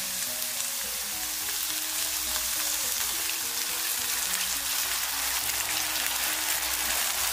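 Pan-fried tofu cubes sizzling steadily in oil in a hot pan as a prepared sauce is poured over them.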